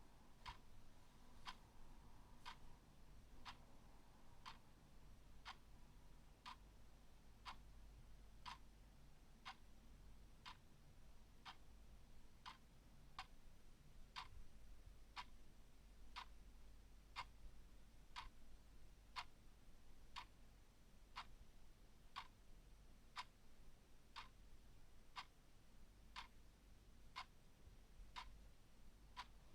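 Clock ticking faintly and evenly, about one tick a second.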